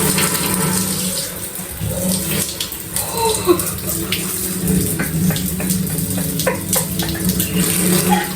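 Shower water running and splattering over a person rinsing off under it, with irregular splashes; the water is cold.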